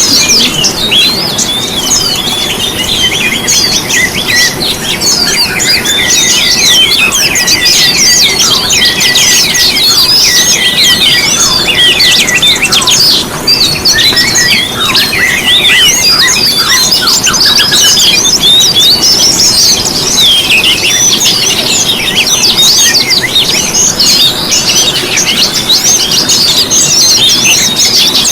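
Several songbirds singing at once: a dense, loud, continuous chatter of fast chirps, quick falling notes and trills, used as a lure song to set caged songbirds singing.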